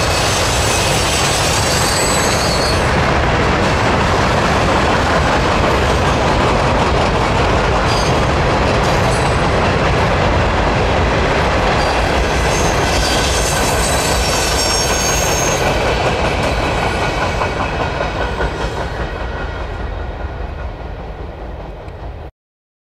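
Freight cars of a passing train rolling by: a steady rumble of wheels on rail with clicking over the rail joints and thin, high wheel squeals now and then. The sound fades over the last few seconds and cuts off abruptly near the end.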